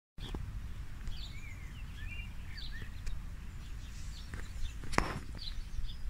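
Small birds chirping in short, rapid notes, over a steady low rumble, with a single sharp click about five seconds in.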